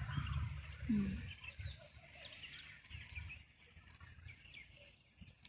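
Birds chirping in many short, high calls, with one low cluck about a second in and a low rumble fading out during the first second and a half.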